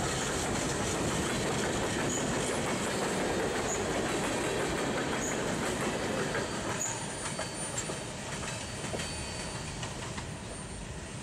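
Freight train's covered hoppers and tank cars rolling past close by: a steady rumble and clatter of steel wheels on the rails. It eases off a little past the middle as the end of the train draws away.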